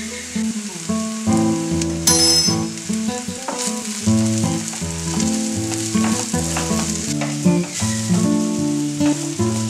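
Onions and freshly added chilli and turmeric powder sizzling in oil in a frying pan, stirred and scraped with a wooden spatula, over background music of plucked notes.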